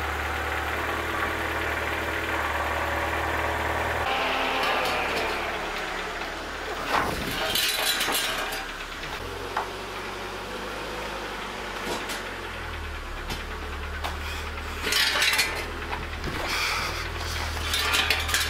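Ford Fiesta engine idling steadily, its low hum changing about four seconds in, with a few short clattering noises over it.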